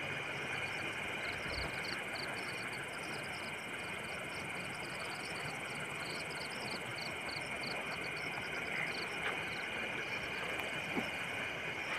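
Night forest insects: a steady high drone with a long run of quick, evenly repeated high chirps over it.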